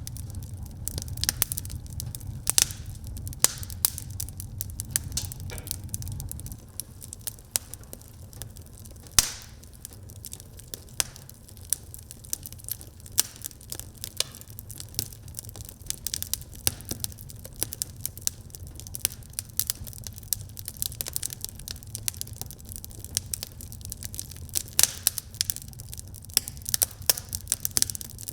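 Wood fire crackling in a fireplace, with irregular sharp pops and snaps, one louder pop about nine seconds in. A low rumble sits under it and drops off about six seconds in.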